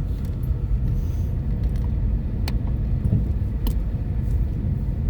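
Road noise heard inside a moving car: a steady low rumble from the tyres and engine. A couple of sharp clicks sound partway through.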